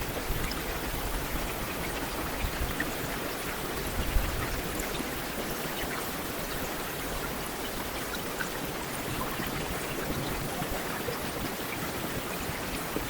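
Heavy rain falling steadily, an even hiss with scattered individual drops ticking, and a brief louder low thump about four seconds in.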